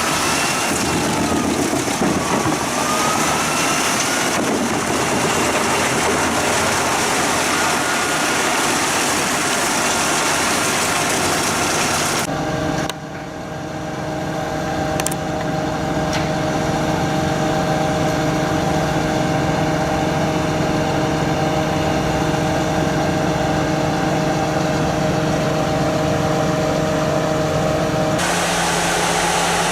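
Heavy forestry machinery running. A noisy mechanical din gives way suddenly, about twelve seconds in, to a steady engine note, which changes again shortly before the end.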